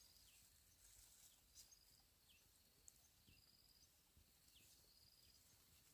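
Near silence: faint high-pitched chirps repeat about once a second, each followed by a short falling note, over a low outdoor background hum.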